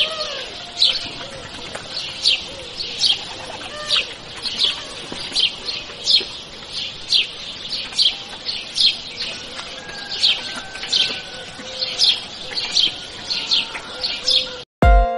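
A bird chirping over and over, a short falling chirp about one and a half times a second, with fainter, lower calls behind it. It cuts off just before the end and music starts.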